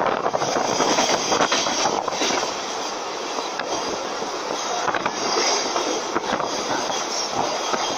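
Passenger train running across a bridge, heard from inside the carriage: a steady rumble of wheels on rails with occasional clicks.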